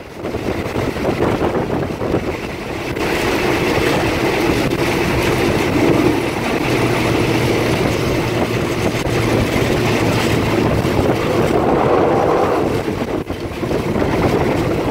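A passenger train running along the track, heard from inside the carriage: the steady running noise of the train on the rails, with a low hum through the middle.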